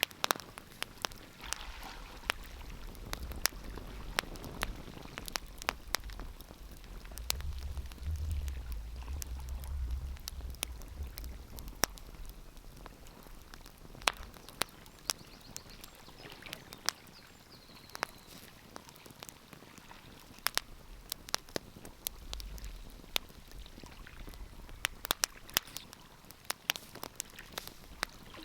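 Wood fire crackling, with irregular sharp pops and snaps over a soft hiss. A low rumble swells underneath about a quarter of the way in and again later.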